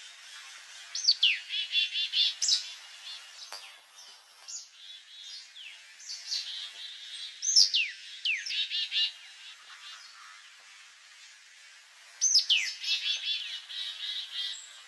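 A songbird singing: three times, about five seconds apart, a phrase of a quick downward-sliding whistle followed by a rapid run of short chirping notes, with softer chirps from birds in between.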